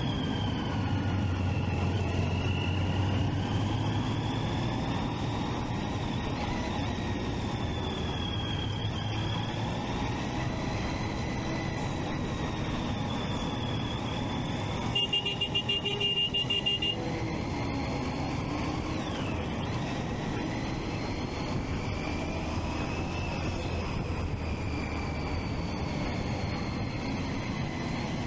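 Triumph Street Triple 675's inline-three engine running on the move with wind and road noise, its pitch rising and falling gently with the throttle. About halfway through, a rapid electronic beeping sounds for about two seconds.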